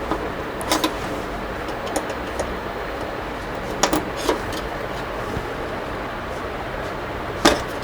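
A handful of short, sharp plastic clicks and knocks from an LED TV panel's frame and locking clips being unlatched and handled, the loudest near the end, over a steady background hiss.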